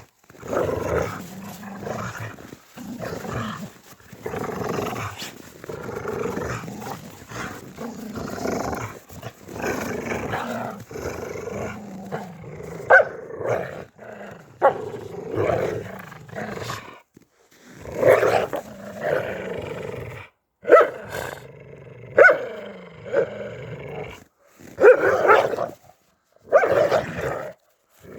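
A dog growling and barking. It makes long, rough growls at first, then shorter, sharper barks with brief pauses between them in the second half.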